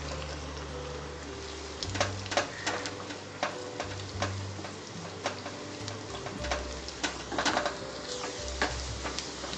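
Chopped shallots and curry leaves sizzling in coconut oil in a small pan, while a wooden spatula stirs them and clicks and scrapes against the pan many times. The shallots are frying to a good brown for a tempering.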